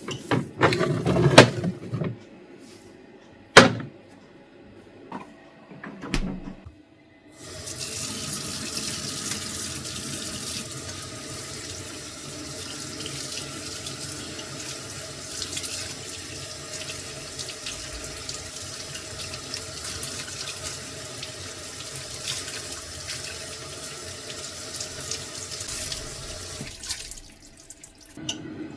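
A few knocks and clatter, then a water tap running steadily into a sink from about seven seconds in, turned off near the end.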